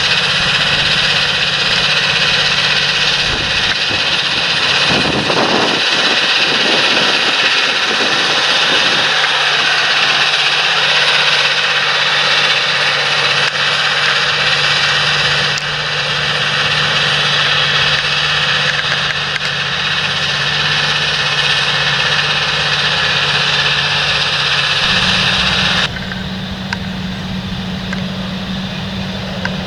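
Large John Deere tractor's engine running steadily, with a strong hiss over it. About four seconds before the end the sound changes abruptly to a quieter, deeper engine note.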